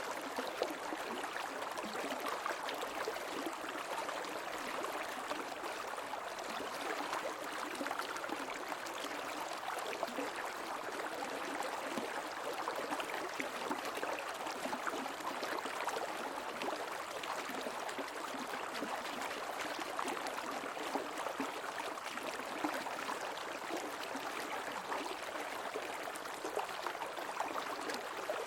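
Creek water flowing steadily: an even rushing with many small splashes and bubbles, lighter in the low end.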